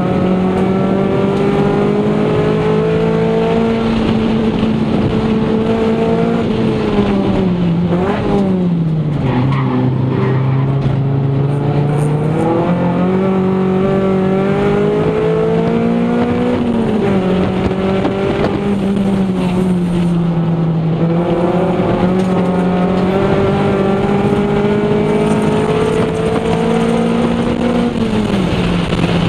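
Toyota Celica GT's four-cylinder engine heard from inside the cabin, driven hard, its pitch climbing and falling as the throttle is worked. The revs drop sharply about eight seconds in, climb again, and dip several more times, the last near the end.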